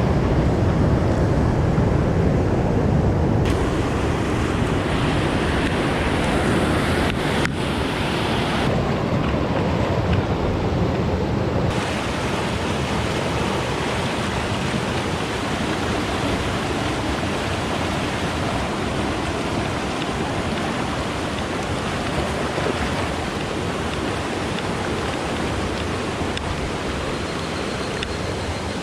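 Fast, high water of a swollen mountain stream rushing steadily. The hiss of the water grows brighter and duller a few times in the first dozen seconds.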